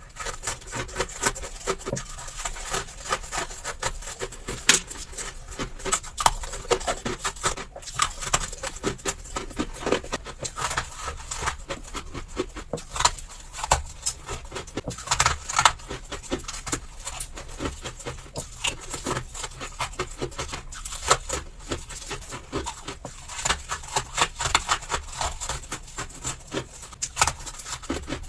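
Freezer frost ice being bitten and chewed close to the microphone: a continuous, irregular run of crisp crunches and scratchy crackles.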